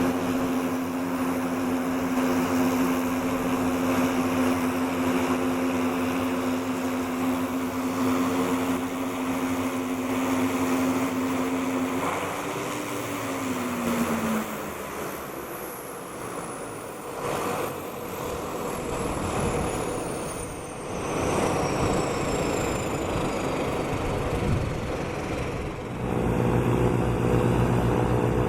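Cessna Conquest II's Garrett TPE331 turboprop engines running steadily, then winding down about twelve seconds in: the drone drops in pitch and a high turbine whine falls slowly over the next ten seconds as the engines shut down. Near the end a different, lower, evenly pulsing engine sound starts abruptly.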